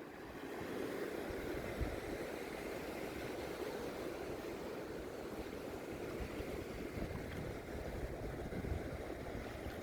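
Sea surf washing up the beach, with wind on the microphone: a steady rushing noise and a few faint low thumps.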